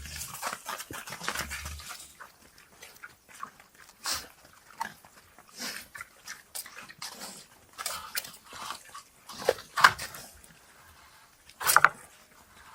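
Animal cries: a string of short, irregular squeals and yelps at uneven gaps, the loudest coming near the end.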